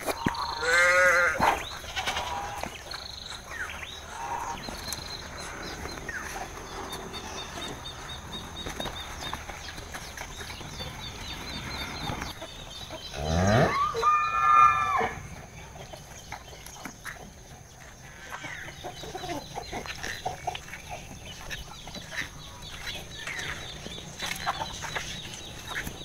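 Cow mooing: a short call about a second in, then a long bellow about halfway through that starts low and rises in pitch, with fainter calls between.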